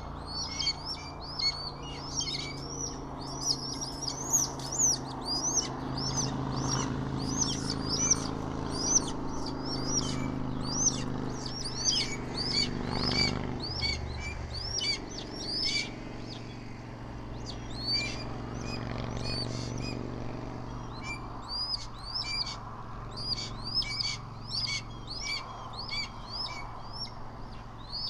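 Small birds chirping in quick runs of short, high notes, several a second with a brief lull midway, over a low steady rumble.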